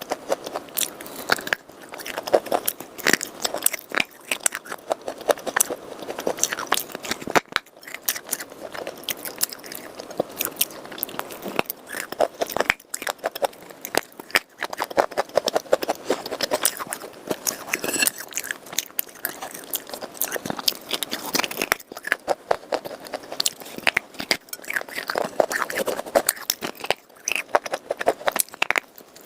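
A person biting and chewing hard, dry pieces of red khawa clay and chalk: a continuous, irregular run of sharp, crisp crunches.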